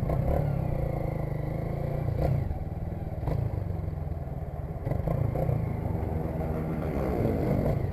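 Motorcycle engine idling with a steady low rumble. A fainter engine note rises and falls in the second half.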